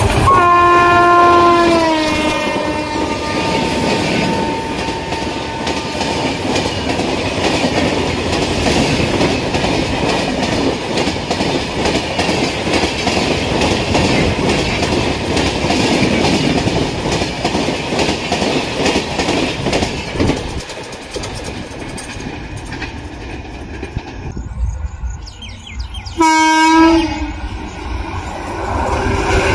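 An Indian express train's electric locomotive sounds its horn as it passes at about 110 km/h, the pitch dropping as it goes by. Then its coaches rush past with steady wheel-and-rail clatter. Near the end a second train's horn gives one short blast, and that train's rush builds as it approaches.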